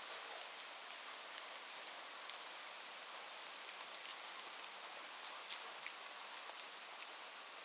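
Steady rain falling, an even soft hiss with scattered individual drops ticking.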